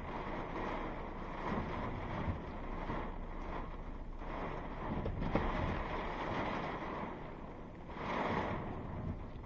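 Strong thunderstorm winds gusting around a truck and hitting the microphone, rising and falling, with a brief lull followed by a strong gust near the end and a few faint knocks.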